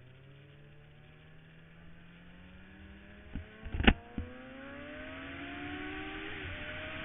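Suzuki GSX-R sport bike's inline-four engine pulling under acceleration, its pitch climbing steadily. A few sharp knocks come about four seconds in, the middle one loudest; then the revs drop and climb again with the next gear while wind noise grows.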